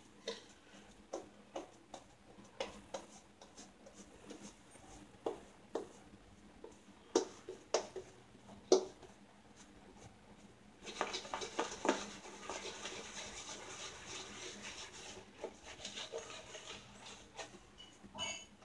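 Scattered light taps and knocks, then, from about eleven seconds in, a shaving brush working soap lather onto a wetted face: a faint, rapid, steady scratchy swishing.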